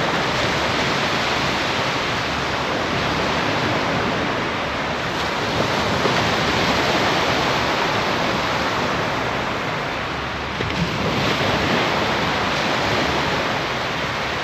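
Steady rush of sea surf washing on the shore, swelling and easing, mixed with wind noise on the microphone.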